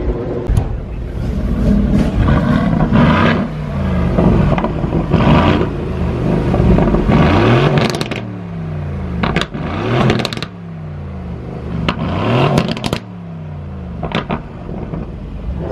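A 2019 Aston Martin Vantage's twin-turbo V8 revved several times, each rev rising sharply and falling back toward idle.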